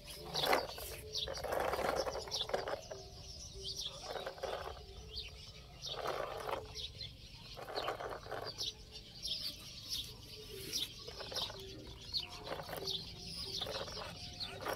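Small birds chirping, short high chirps again and again, over intermittent scuffing noises.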